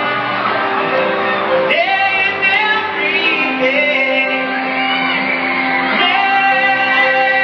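Live band music with singing, played loud through a concert sound system in a large hall, with some shouts over it.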